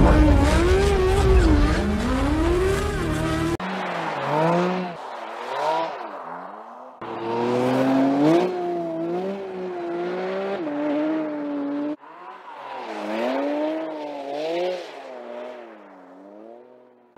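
High-revving sports car engine, the Porsche 718 Cayman GT4 RS's flat-six, rising and falling in pitch as the car is driven sideways through corners. The sound is heard in several edited segments that cut off abruptly. The first few seconds are louder, with a heavy low rumble.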